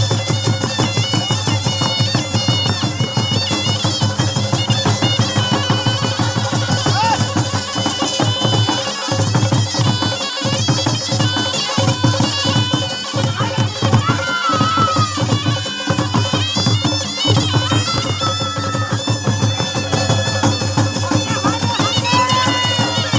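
Traditional folk music: a reedy wind melody that wavers up and down over fast, steady drumming.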